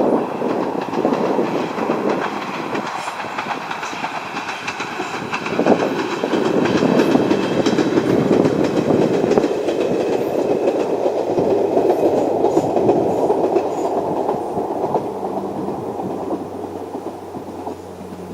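Ichibata Electric Railway 2100 series electric train running on the line, its wheels clattering over the rail joints. The clatter swells through the middle and fades away toward the end, when a low steady hum comes in.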